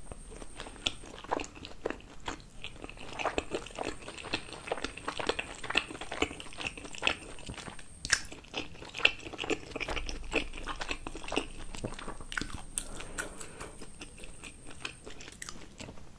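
Close-miked chewing of a soft steamed momo dumpling with chili dipping sauce: a steady run of quick, irregular mouth clicks.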